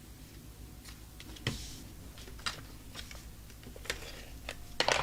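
Light clicks and taps from handling cut cardstock pieces and tools on a craft table, with a brief paper rustle about a second and a half in and a quick cluster of taps near the end.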